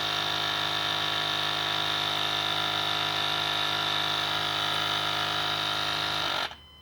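Vacuum pump of a 6.4L diesel truck's shift-on-the-fly 4WD vacuum system running continuously with a steady hum, because of a vacuum leak at a broken elbow fitting. It shuts off suddenly near the end as the open line is plugged.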